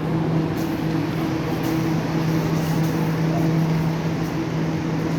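Steady mechanical hum of a Laos–China Railway train, with a constant low tone under an even rush of noise.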